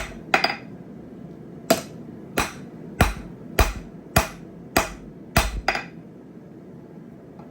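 Blacksmith's hand hammer striking a hot steel jackhammer chisel on an anvil as it is forged into a hot cut hardy. The blows come at a steady pace of about one every 0.6 s, each with a brief metallic ring, and stop about six seconds in.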